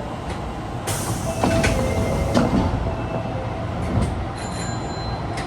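A subway train running on its rails: a steady rumble with several short clicks and brief faint tones.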